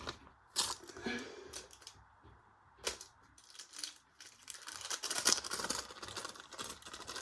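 JL Toys toc-toc toy washing machine: a few separate clicks, then from about four and a half seconds in a fast, continuous rattling clatter as it runs.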